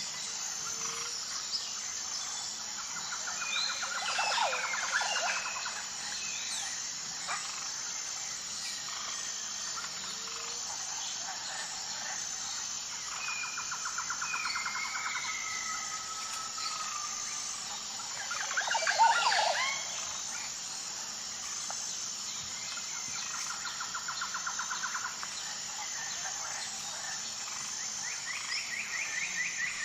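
Wild birds singing and calling. A fast trilled phrase comes back about every ten seconds, and louder sweeping calls come about four and nineteen seconds in, the second the loudest. A steady, evenly pulsing high chirp runs underneath.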